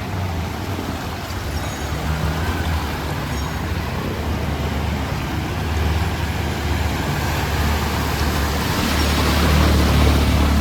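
Road traffic: motor vehicle engines running with a low hum, getting louder toward the end as a vehicle draws close.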